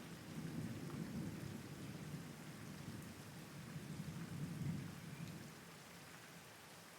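Steady rain with low rolling thunder that swells twice and fades out about five and a half seconds in, leaving only the hiss of the rain.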